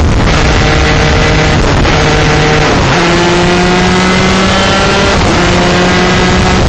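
125cc two-stroke shifter kart engine running hard at racing speed, its pitch climbing and then dropping back in steps several times as it changes gear.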